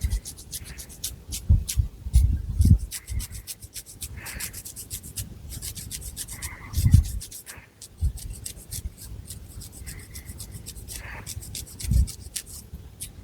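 Long fingernails scratching through hair on the scalp close to the microphone: quick, repeated scratchy strokes, several a second, with a few low dull thumps.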